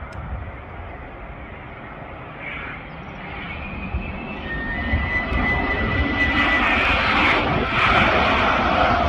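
Airbus A330neo's Rolls-Royce Trent 7000 turbofans on landing approach, a rushing jet noise with a high fan whine that grows steadily louder from about three seconds in as the airliner nears.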